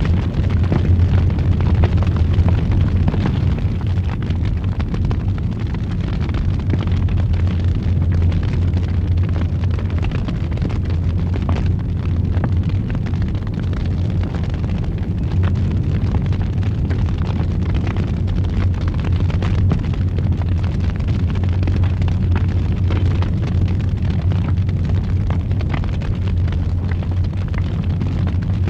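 A fireplace fire roaring: a steady low rumble with frequent small crackles and pops throughout.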